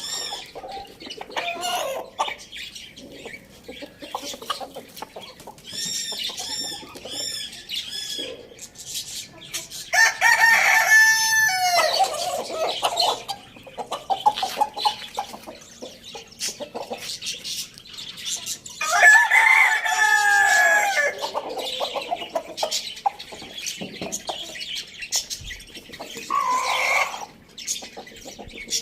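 Roosters crowing: two long, loud crows about ten and nineteen seconds in, and a shorter call near the end. Between them, chickens cluck and give short, high, repeated chirps.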